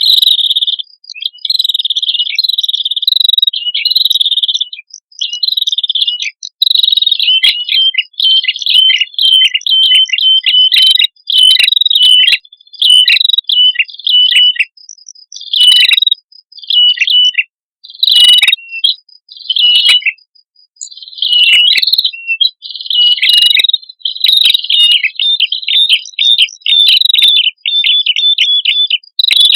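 Male and female prenjak kepala merah (small warbler-type songbirds) calling loudly: rapid, high, repeated chirps in phrases of a second or two with short breaks, some notes dropping sharply in pitch.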